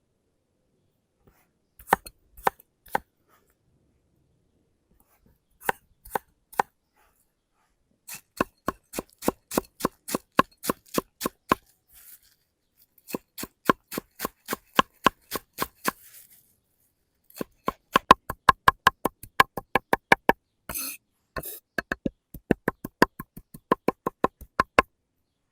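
Knife chopping on a cutting board: a few single strokes, then quick runs of about four to five chops a second broken by short pauses, with a brief scrape near the end.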